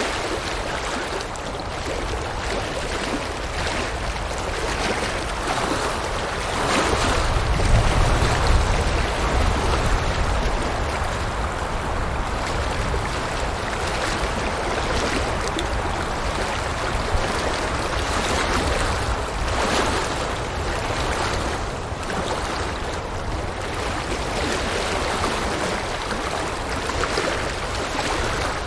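River water rushing and burbling over rocks, a steady flowing wash that swells a little about a quarter of the way in, with a deeper rumble.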